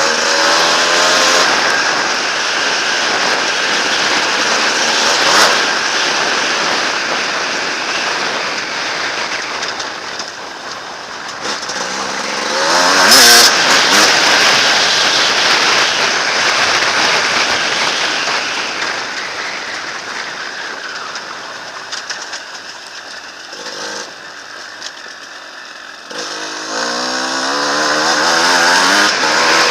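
Enduro dirt bike engine revving hard and easing off in surges. The loudest burst of revs comes about halfway through, then the engine drops to a lower, quieter running before revving up again near the end.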